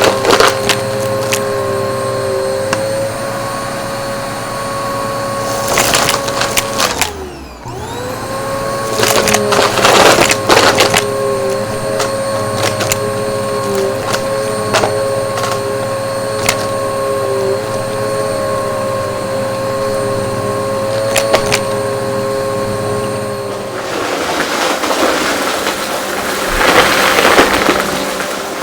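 Upright vacuum cleaner running with a steady motor whine, with stretches of crunching and rattling as it sucks up hard debris. About seven seconds in, the motor's pitch falls away and then climbs back up within a second.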